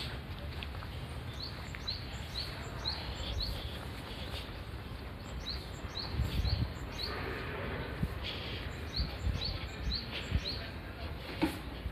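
A small bird calling: quick series of short, rising chirps repeated in several bouts over outdoor background noise, with a low rumble about six seconds in.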